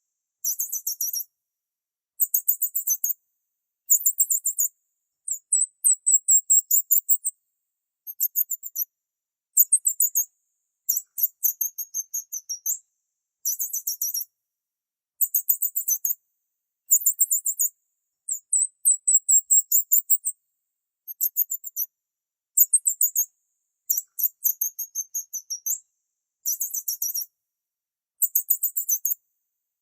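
Small bird chirping: very high-pitched, rapid chirps run together in bouts of about a second, repeating after short pauses.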